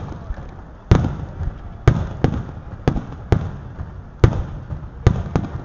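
Aerial fireworks shells bursting: about eight sharp booms in quick, irregular succession, each trailing off in a rumbling echo.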